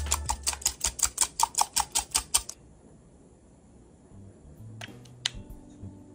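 Hand whisk clicking rapidly and evenly against a mixing bowl, about six strokes a second, then stopping; two single taps follow near the end.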